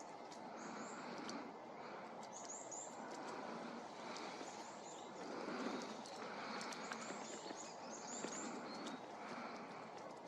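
A small bird calling: short, very high notes in quick groups of two or three, repeated every second or so, over a steady outdoor background hiss.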